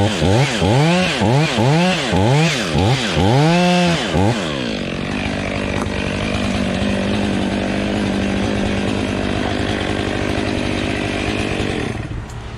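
Two-stroke chainsaw revved in quick repeated throttle blips, its pitch swinging up and down, then held at a steady high speed for several seconds before it drops away near the end.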